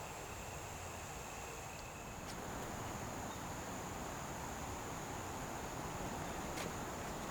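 Insects calling in steady continuous trills at two high pitches, the lower one stopping about two seconds in, over a steady soft outdoor hiss.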